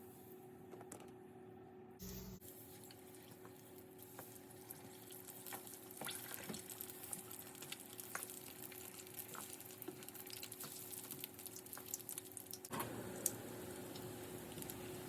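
Hot oil sizzling and crackling with many small pops as potato donuts deep-fry. Near the end the crackle gives way to a steadier hiss.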